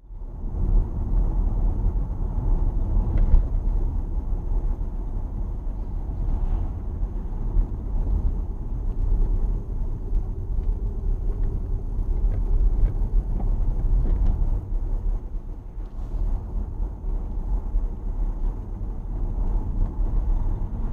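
Steady low rumble of road and engine noise from a moving car, as picked up by a dashcam microphone inside the vehicle, with a few faint clicks.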